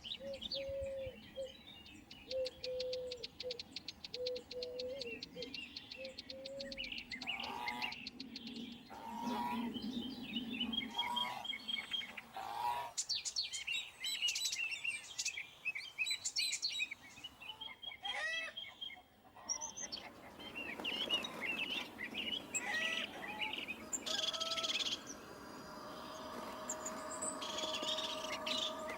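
Birds chirping and calling in a varied run of short chirps and trills.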